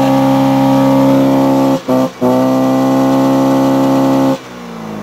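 Mazda Precidia's engine held at high revs with a steady tone, dipping twice briefly about two seconds in and recovering, then let off a little after four seconds so the revs fall away.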